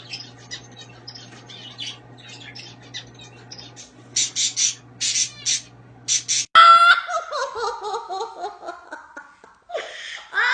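Birds chirping and squawking over a steady low hum, with a run of louder harsh squawks. Then a loud drawn-out call that falls slowly in pitch.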